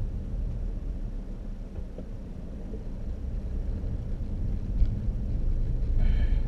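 Low, steady rumble of a car engine running, heard from inside the car, growing louder near the end. A brief higher-pitched sound comes about six seconds in.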